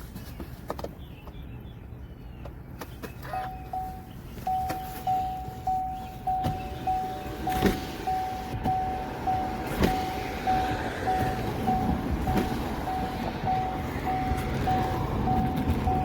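A single-pitched electronic beep repeating about twice a second over a low rumble and scattered clicks. It starts about three seconds in and keeps going.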